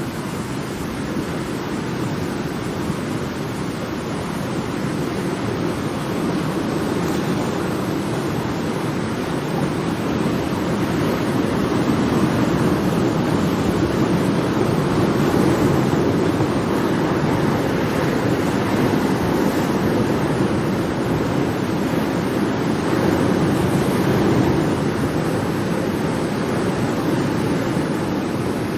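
Ocean surf: a continuous wash of breaking waves that swells and eases slowly, louder in the middle and again near the end.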